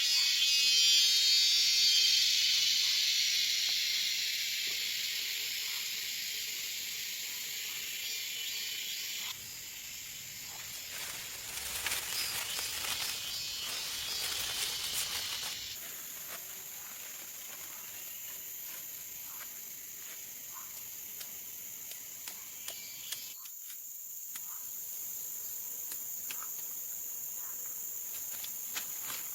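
A loud, high, pulsing insect drone, cicada-like, that cuts off abruptly about nine seconds in. It is followed by a few seconds of crackling and rustling, then a fainter insect hum with occasional small clicks.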